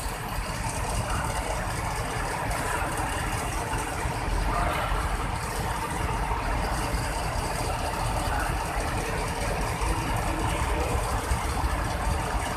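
Hino truck's diesel engine running steadily.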